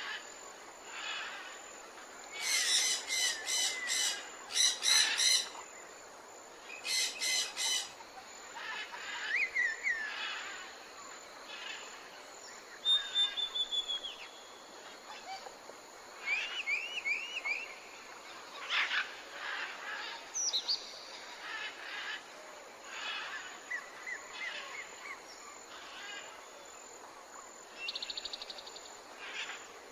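A mix of wild birds calling. The loudest are bursts of harsh, rapid notes about two and a half seconds in and again around seven seconds, among scattered whistled glides, trills and chirps over a faint steady background hiss.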